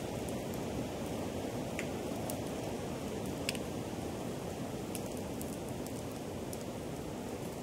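Bonfire burning: a steady rushing noise with scattered sharp crackles and pops from the burning wood, the loudest pop about three and a half seconds in.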